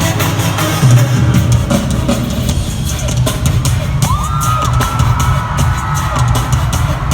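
Live band music, heavy drums and bass with a sustained synth line, loud and distorted as recorded from within the crowd.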